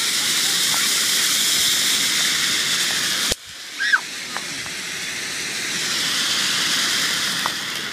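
A steady hissing noise that cuts off sharply a little over three seconds in and then builds back up.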